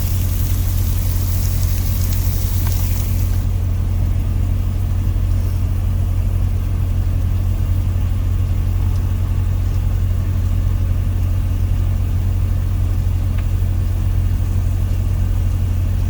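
Steady low drone of an idling semi truck diesel engine heard from inside the cab. A high hiss over it cuts off about three and a half seconds in.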